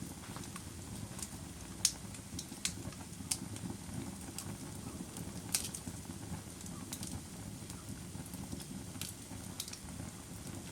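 Campfire burning: a steady low rush of flame with irregular sharp crackles and pops from the wood, the loudest about two seconds in and again just past the middle.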